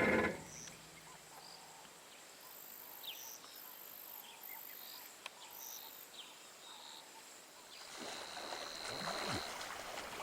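Outdoor bush background of faint chirping calls and insect buzzing, with a steady high insect whine joining near the end. A short loud sound comes right at the start.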